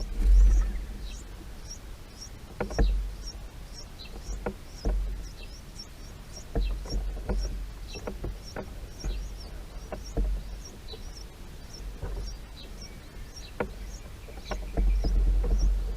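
Birds chirping in short, high notes, about two or three a second, over a low rumble with several sharp knocks.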